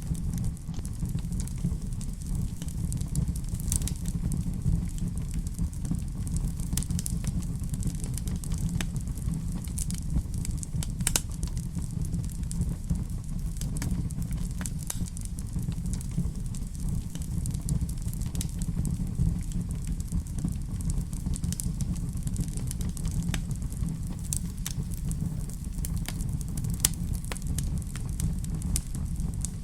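Wood fire burning in a fireplace: a steady low rumble of the flames with frequent scattered crackles and pops.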